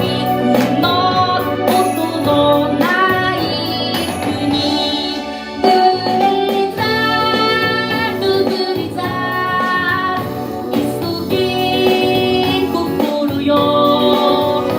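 A singer performing a song with instrumental accompaniment.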